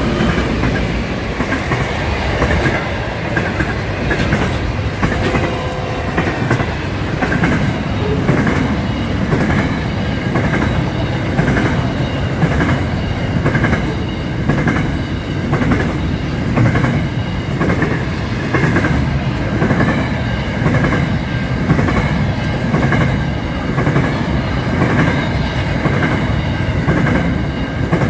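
Long freight train passing close by at speed: its wagons rumble and clatter over the rail joints in a steady repeating rhythm, with a thin high ringing from the wheels above it.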